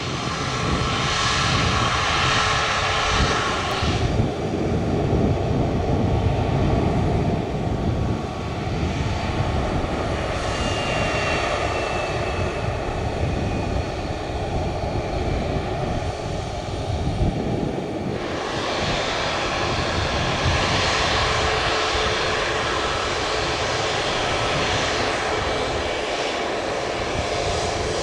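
Airliner engines running at an airport, a continuous roar. The sound changes abruptly twice as the recording cuts between aircraft.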